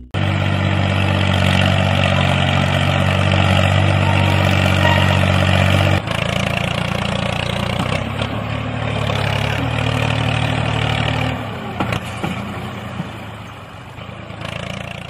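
Engine-like motor running steadily with a low, even hum. Its tone shifts abruptly about six seconds in and again later, and it fades away near the end.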